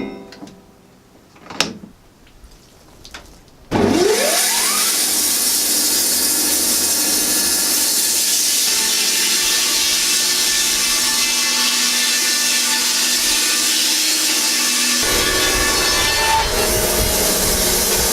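Wood-Mizer LT10 band sawmill starting up after a few clicks, its pitch rising fast, then running steadily as the blade cuts a pine log into planks; a lower rumble joins near the end.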